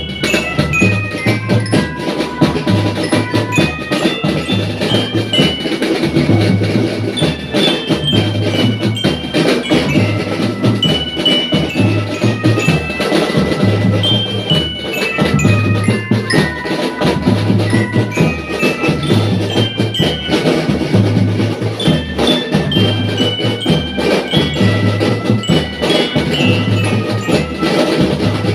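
Drum band playing: a glockenspiel melody of quick high bell notes over bass drums and snare drums keeping a steady marching beat.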